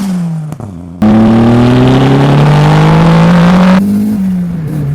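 Turbocharged Mazda Miata four-cylinder engine through a custom stainless exhaust. Revs fall at first. About a second in the sound cuts abruptly to a loud pull whose pitch climbs steadily under acceleration. Near the end it drops back and settles to a steady lower note.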